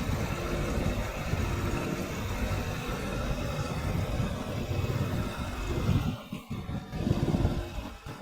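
Air conditioner's outdoor condenser unit running noisily: a loud, low rumble with a steady hum. It dips briefly about six seconds in.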